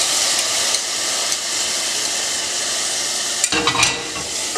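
Onion and spice masala with freshly added chopped tomato sizzling steadily in hot coconut oil in a steel pot. About three and a half seconds in, a wooden spatula stirs, clattering and scraping against the pot for about half a second.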